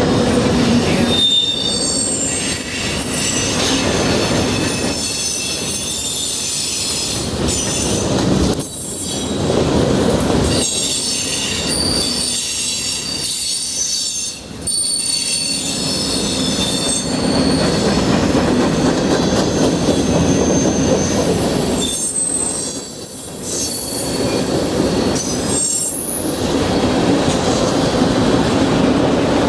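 Freight train cars rolling past, their steel wheels squealing against the rails. The high-pitched squeals come and go over a steady rumble.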